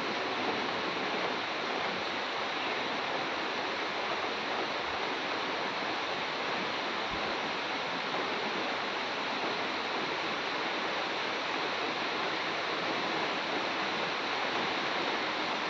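Steady rain falling on trees and ground, an even, unbroken hiss.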